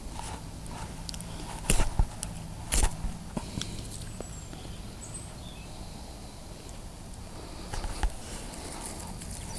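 Campfire being lit and kindled: scattered sharp cracks and knocks, three of them louder, about two seconds in, near three seconds and near the end, over a low steady hum.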